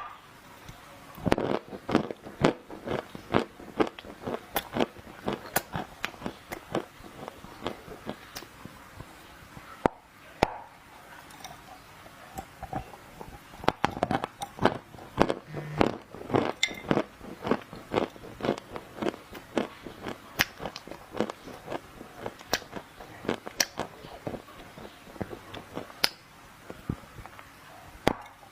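Dry clay crunching and crackling in a dense, irregular run of sharp snaps, with a few short pauses.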